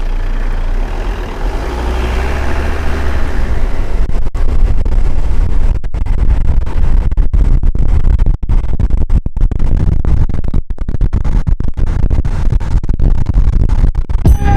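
Steady low rumble of a moving vehicle. From about four seconds in it becomes heavy, choppy buffeting, typical of wind hitting the microphone as speed builds on a downhill run.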